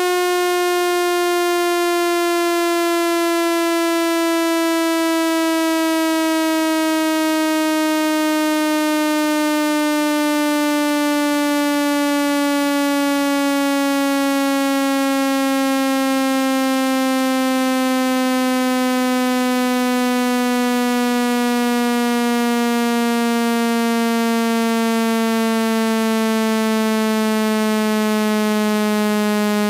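Electronic speaker-cleaning tone, played to shake water out of a phone speaker. It is a loud, buzzy tone that falls slowly and steadily in pitch.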